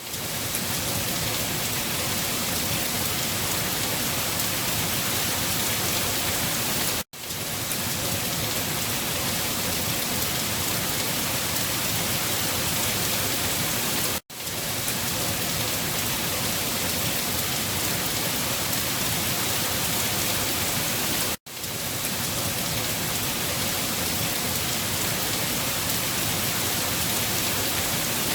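Steady heavy rain, an even dense hiss. It drops out to silence for an instant three times, about every seven seconds, where the recording loops.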